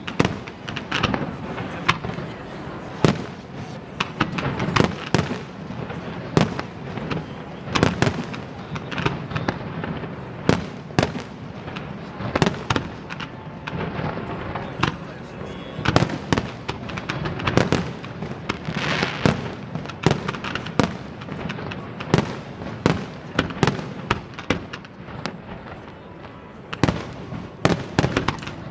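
Aerial fireworks display: shells bursting in a rapid, irregular string of sharp bangs, at times several a second, over a constant background din.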